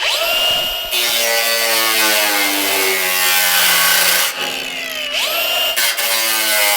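Angle grinder spinning up and cutting into the mower's metal hood with a cutting disc. Its whine sags under load about four seconds in, then climbs back and it cuts on.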